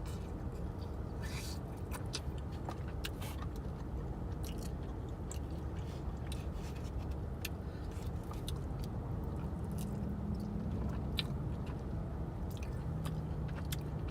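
Close-up chewing and biting into fried peri-peri chicken wings, with scattered sharp mouth smacks and clicks, over a steady low rumble of a car.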